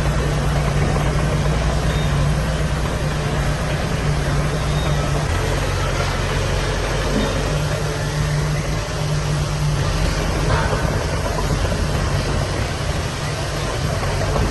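Heavy diesel machine engine running steadily, its low note shifting about five seconds in.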